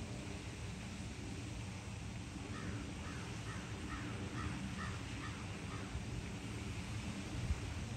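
A bird gives a quick series of about ten short calls, around three a second, starting about two and a half seconds in, over a steady low rumble.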